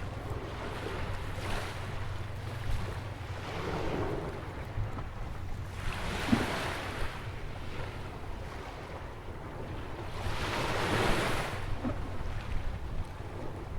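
Atlantic surf breaking on a sandy beach by a jetty: three waves surge in and wash out, about four to five seconds apart. A steady low wind rumble sits on the microphone underneath.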